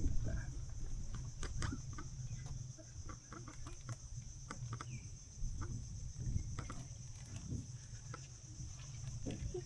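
Outdoor ambience: a steady high-pitched insect drone under a low rumble, with scattered short clicks and knocks and a few brief calls.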